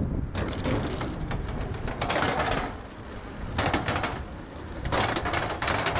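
Noisy rattling and clatter from a moving e-bike, coming in uneven bursts of quick clicks several times, over a low rumble of wind on the microphone.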